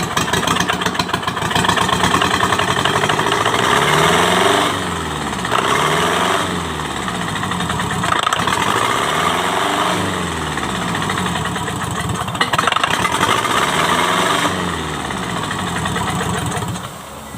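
Kubota V1501 four-cylinder diesel engine running, its revs rising and falling several times.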